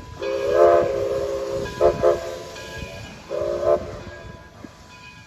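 Steam locomotive's multi-tone chime whistle blowing: one long blast, two quick short toots about a second later, then a shorter blast. Train running noise rumbles underneath.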